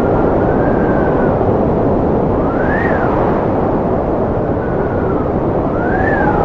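Strong wind blowing in a steady, loud rush, with a thin whistle that rises and falls in pitch several times as it gusts.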